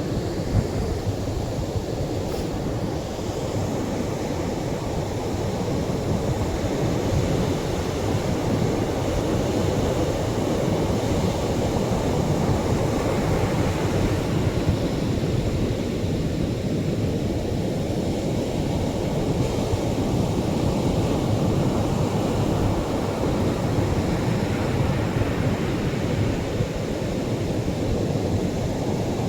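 Atlantic surf breaking and washing on a sandy shore in a continuous low rush, with the hiss of the wash swelling about halfway through and again near the end.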